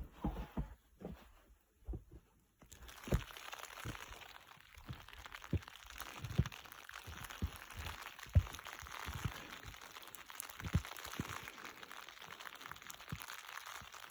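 Snow crunching in irregular heavy thumps, about one every second. About three seconds in a steady hiss joins it and runs on under the thumps.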